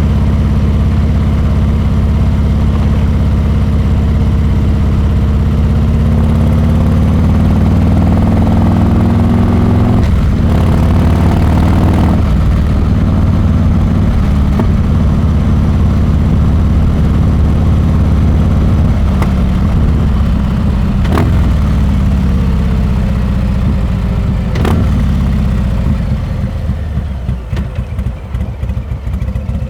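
Harley-Davidson Milwaukee-Eight 114 V-twin running through a Rinehart exhaust while riding. It rises in revs several times, with gear changes about ten and twelve seconds in and again near the end. In the last few seconds the throttle closes and the exhaust drops to an uneven, lumpy beat.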